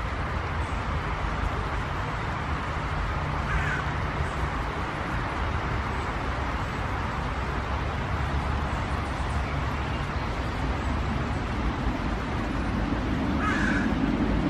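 A bird giving short, harsh calls once about three and a half seconds in and again near the end, over a steady low background rumble that grows slightly louder toward the end.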